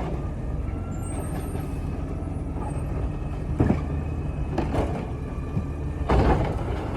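Garbage truck engine running steadily, with a short burst of hiss near the end.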